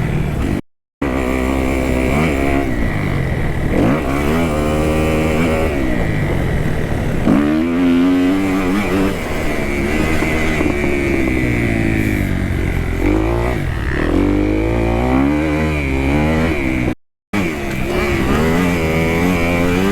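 2018 Kawasaki KX250F four-stroke single-cylinder motocross engine being ridden hard, revving up and down again and again as the throttle opens and closes through the track's jumps and corners. The sound cuts out briefly twice, about a second in and near the end.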